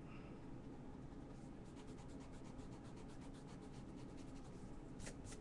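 Faint, quick pen strokes scratching on a drawing surface, in a rapid run through the middle, over a steady low hum. A couple of sharper ticks come near the end.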